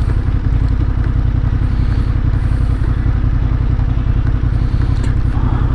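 Motorcycle being ridden, its engine running steadily under a constant rumble of road noise.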